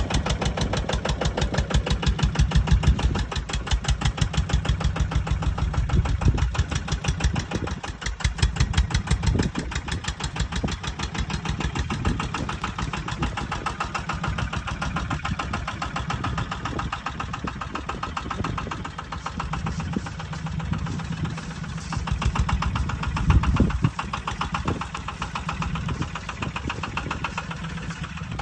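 18 hp Kubota single-cylinder diesel engine of a small farm truck running, with a rapid, even firing pulse that swells and eases a little in level.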